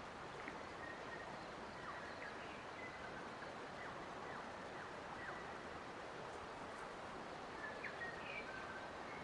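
Faint birds chirping with short, mostly falling calls scattered over a steady rushing noise bed.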